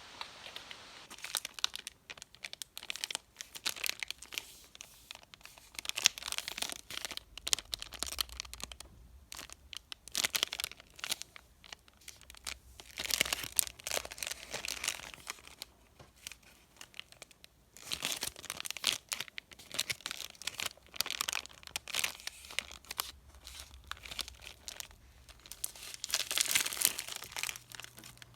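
Candy wrappers being torn open and crinkled by hand, in irregular runs of crackling with short pauses between them.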